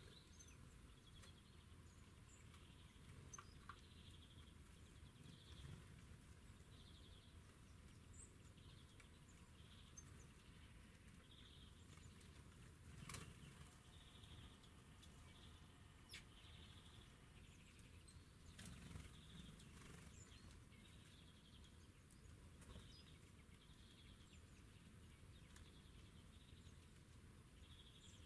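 Faint small-bird calls: short high notes repeating about once a second over a quiet outdoor background, with a few sharp clicks, the loudest about halfway through.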